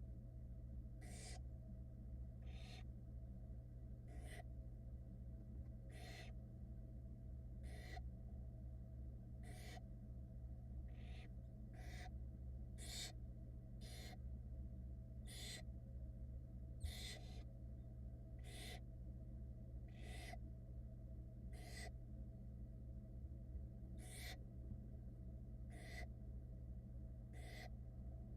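Barn owl nestlings giving repeated hissing begging calls, short rasping hisses about once a second, over a steady low hum.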